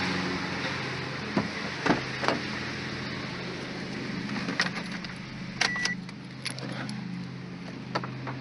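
A 2006 Suzuki Aerio's four-cylinder engine idling steadily, with a handful of sharp clicks and knocks scattered over it.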